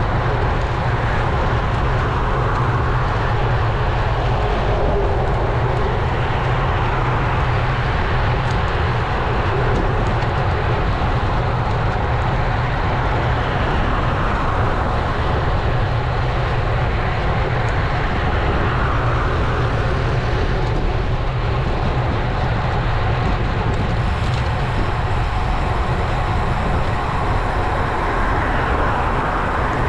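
Steady wind rush buffeting an action camera's microphone on a road bike riding at speed, with a deep rumble and road noise under it.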